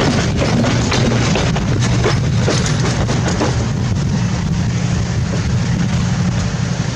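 Passenger train pulling out and moving away: a steady low rumble of the moving train, with clicking and clattering of its wheels on the rails in the first few seconds.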